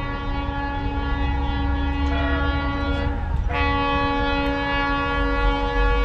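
Locomotive horn sounding one long continuous blast over the low rumble of the passing train. About three and a half seconds in, the horn's pitch drops as it goes by.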